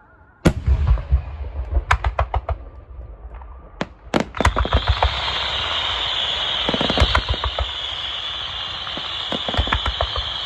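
Aerial fireworks bursting: a sudden deep boom about half a second in, then a quick run of sharp bangs. From about four and a half seconds a dense, continuous high crackle fills in, with scattered booms over it.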